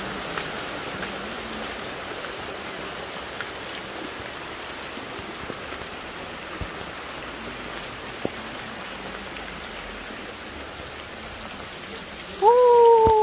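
Steady rain falling, with scattered drips and taps. Near the end a person's voice calls out loudly.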